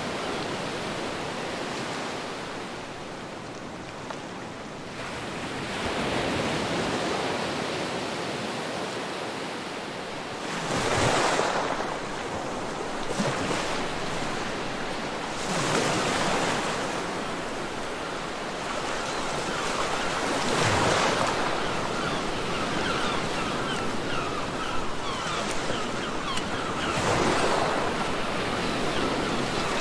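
Ocean waves breaking on a beach: a surge of surf about every five seconds, washing back between breaks.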